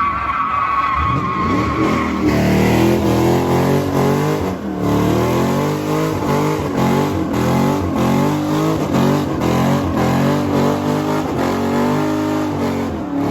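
A car drifting: tyres squeal, most strongly in the first two seconds. The engine revs rise and fall again and again as the driver works the throttle.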